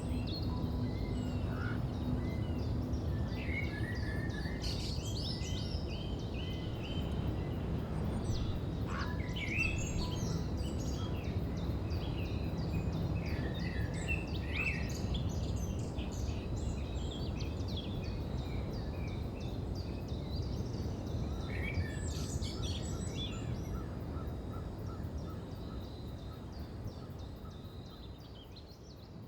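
Woodland ambience: several small birds chirping and singing in short scattered phrases over a steady low background rumble, the whole fading out near the end.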